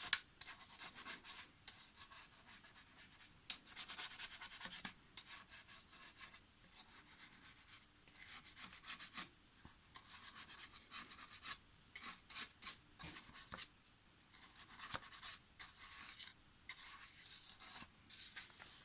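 Brush scrubbing the rails of a Roomba home base in short, irregular scratchy strokes, with brief pauses between them.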